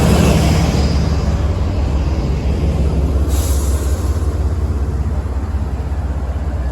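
Diesel train passing close by at a station platform, its engine running with a loud, steady low drone under rail and wheel noise, with a brief hiss about three seconds in.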